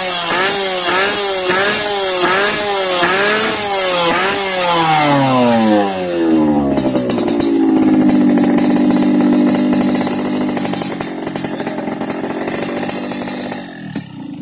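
Yamaha RX-King's two-stroke single-cylinder engine blipped rapidly through an aftermarket underslung expansion-chamber exhaust, about six quick revs in a row. The revs then fall away and the engine settles to a steadier run, which fades near the end.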